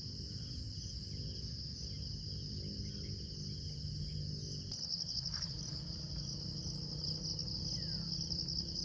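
A chorus of crickets or other insects trilling steadily in two high continuous tones, over a low steady rumble. A few faint short bird chirps come in from about midway.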